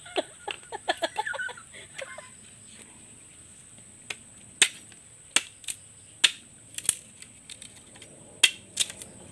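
A chicken clucks in a short run of calls for the first two seconds. Then come sharp, irregular snaps and cracks of dry firewood in a small cooking fire, roughly one a second, and these are the loudest sounds. A steady high-pitched drone runs in the background.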